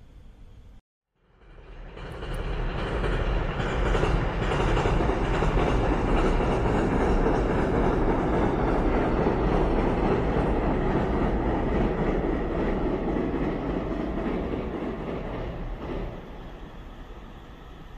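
A JR Musashino Line electric passenger train passing along the track. Its running noise builds over the first couple of seconds, holds steady, and falls away near the end.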